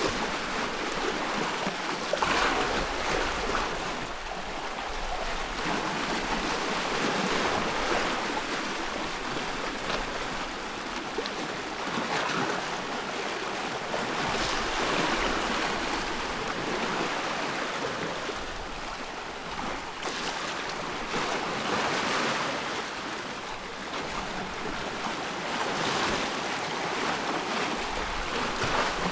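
Sea waves washing in and breaking, a continuous rushing surf that swells every few seconds as each wave comes in.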